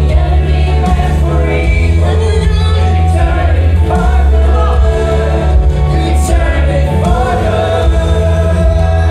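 Live worship music: a band with a strong, steady bass and a group of voices singing together.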